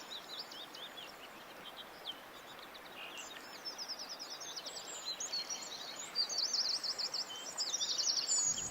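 Songbirds chirping in quick repeated series, sparse at first and busier and louder from about three seconds in, over a steady background hiss.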